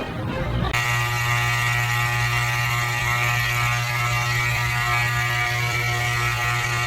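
Electric hair clippers switched on about a second in, then running with a steady buzz.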